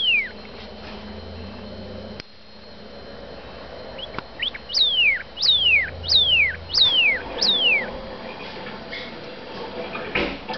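Northern cardinal singing: a run of loud, clear whistles slurring downward, five in a row about two-thirds of a second apart, led in by two short rising notes. One more down-slurred whistle ends right at the start.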